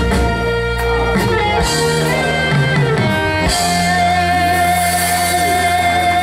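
Live band with guitar and drums playing the closing bars of a Mandarin pop song. After a few chord changes it settles about three and a half seconds in on one long held final chord.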